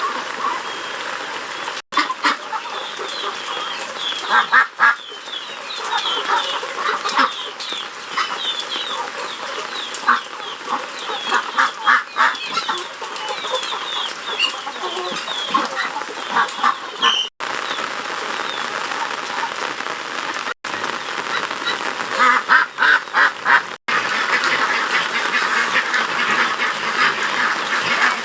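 A flock of farm poultry calling, with many short overlapping calls. The sound breaks off abruptly several times.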